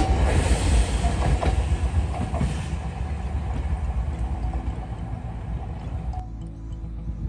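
A train passing on the rails with a low rumble that gradually fades away as it recedes.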